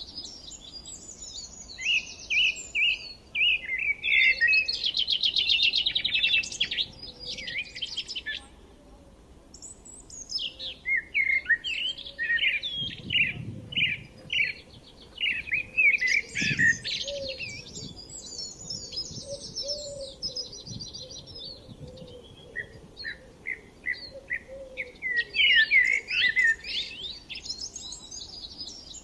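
Several songbirds chirping and trilling at once, with many quick overlapping calls and fast trills coming in bursts and a short lull about nine seconds in.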